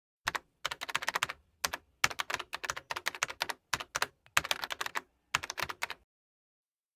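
Typing on a keyboard: runs of quick, sharp key clicks in short bursts with brief pauses between them, stopping about six seconds in.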